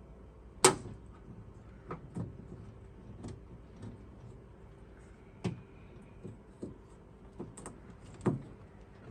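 Scattered clicks and knocks of a replacement plastic door handle being worked into the metal door of a Fiat 500, with one sharp click about two-thirds of a second in and lighter knocks after it.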